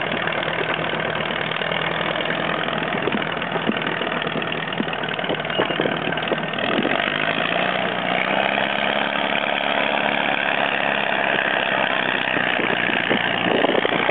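Farmall Super M tractor's four-cylinder engine running; about six and a half seconds in, it speeds up, its pitch rises, and it holds at the higher speed.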